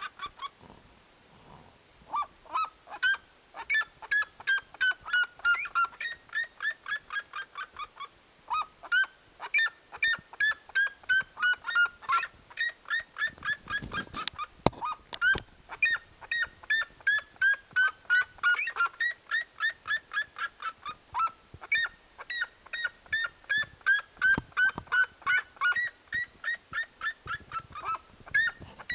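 A bird calling over and over: short honking calls at about three to four a second, in runs that each fall in pitch and then start again higher.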